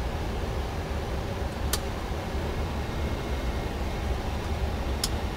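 Steady low rumble of a Boeing 777-200's flight deck in flight on approach, with two short sharp clicks, one a little under two seconds in and one near the end.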